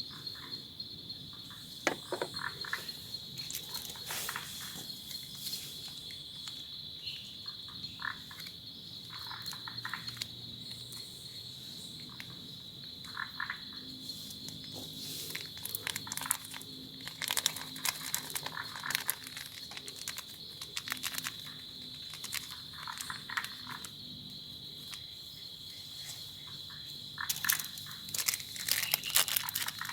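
Frogs calling in short croaking bursts every second or two over a steady, high insect drone, with scattered sharp clicks and taps that grow busier near the end.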